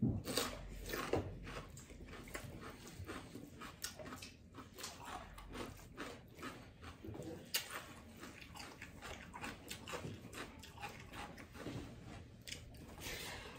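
A person chewing food, with lip smacks and mouth noises in a quick, irregular string of short clicks, while rice is mixed by hand.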